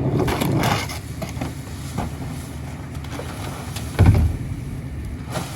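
Garbage truck engine running steadily, with a short, loud, low thump about four seconds in.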